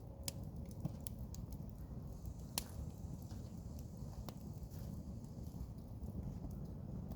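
Wood campfire crackling: scattered sharp pops over a steady low rumble, the loudest pop about two and a half seconds in.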